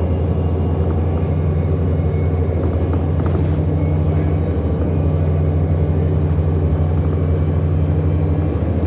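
Inside a 2008 Orion NG hybrid-electric city bus under way: a steady low drone from its drivetrain, with faint higher tones above it.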